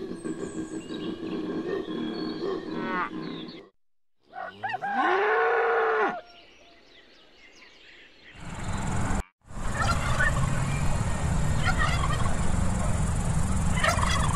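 A koala bellowing, a deep, rough, pulsing call that cuts off a little over three seconds in. Then a cow moos once, its pitch rising, holding and falling. The last part is a steady hiss with a few short bird calls from turkeys and chickens.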